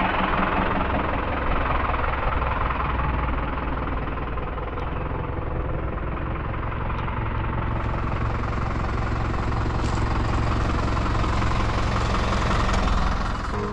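New Holland tractor's diesel engine running steadily with a deep rumble.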